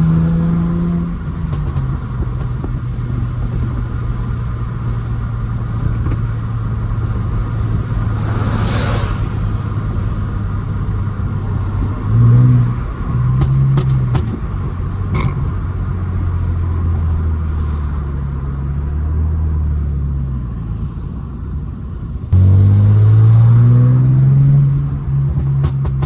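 Straight-piped exhaust of a tuned 2009 Mercedes-Benz C350's 3.5-litre V6 while driving: a steady low drone, with short rev rises about twelve and fourteen seconds in. About twenty-two seconds in comes a much louder pull, rising in pitch for about three seconds before easing off.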